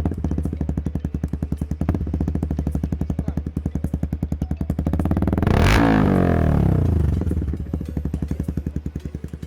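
Motorcycle idling through a custom-made stainless steel exhaust with a bassy note, with two short throttle blips near the start and about two seconds in. About five seconds in it is revved once, the pitch rising and falling back to idle within about two seconds.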